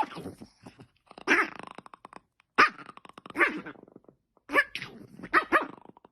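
A dog giving a series of short, growly barks and yowls, roughly one every second.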